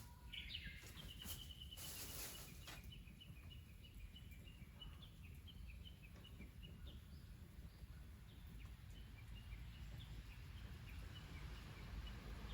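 A small bird calling outdoors: a long series of short, high notes repeated for several seconds, faint over a low steady background rumble, with a few clicks near the start.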